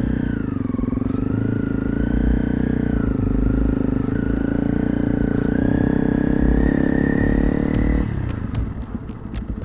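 Honda CRF300 Rally's single-cylinder engine running steadily under way, its pitch creeping up, then easing off sharply about eight seconds in as the throttle is closed.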